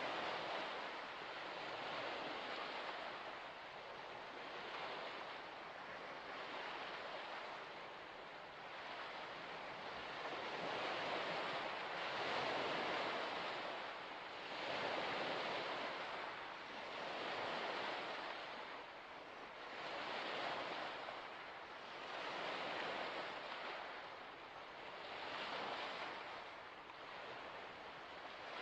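Small waves washing onto a shore, swelling and fading about every two to three seconds.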